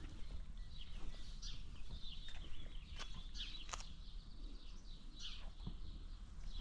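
Small birds chirping: short, high, downward-sliding calls repeated many times, with a few sharp clicks and a steady low rumble underneath.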